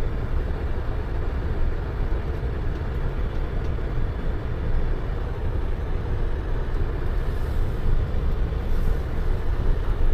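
Semi truck driving, its engine and road noise a steady low rumble heard from inside the cab.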